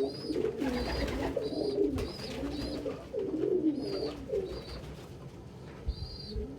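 Domestic pigeons cooing, low coos that rise and fall, with a short high note repeating about twice a second above them and a single sharp click about two seconds in.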